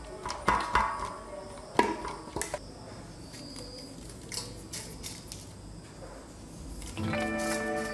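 Knife clicking and scraping against a stainless steel plate while scoring raw chicken, with squishy handling of the wet meat; a few sharp knocks in the first couple of seconds, then fainter ticks. Background music comes in near the end.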